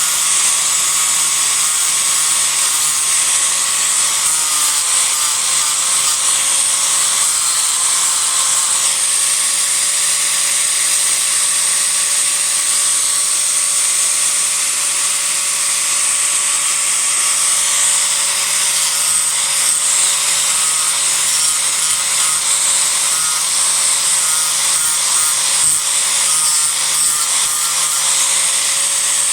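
Disc grinder running without a break, its disc grinding into a cedar offcut to rough out a carving: a steady motor whine under a loud, even hiss of abraded wood.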